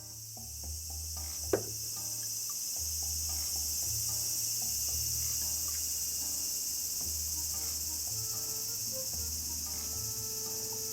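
A steady, high-pitched insect chorus over background music with a low, pulsing bass line. There is one sharp click about a second and a half in.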